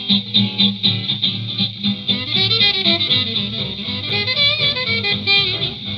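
1930s small-band jazz played from a 78 rpm shellac record: the piano, guitar, bass and drums keep a steady chorded beat, and horns come in with wavering melody lines about two seconds in.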